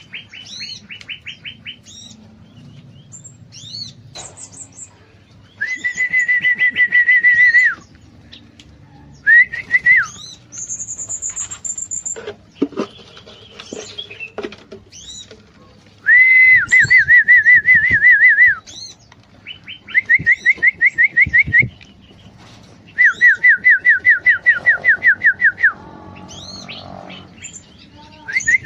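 Aviary songbirds calling: a fast, even trill lasting about two seconds comes six times, with short high chirps in between.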